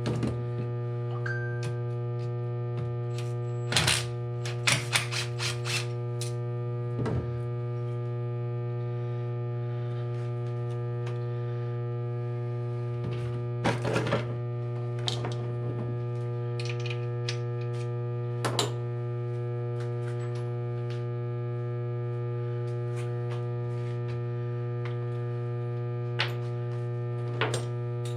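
Steady electrical mains hum throughout, with scattered sharp clinks and knocks of hand tools and loose metal parts as bolts are taken out of a motorcycle engine's cases: a quick cluster about four to six seconds in, then single knocks here and there.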